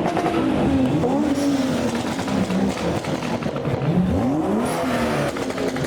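Modified car's engine revving up and down repeatedly, its pitch rising and falling several times.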